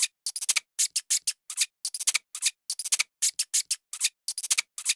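Hamsters in wood-shaving bedding making small, sharp crunchy clicks in quick irregular clusters, about three or four a second.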